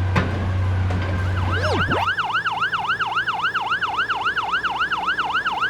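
Emergency vehicle siren in fast yelp mode, rising and falling about four times a second, starting about a second and a half in. Before it, a low steady engine drone cuts off about two seconds in.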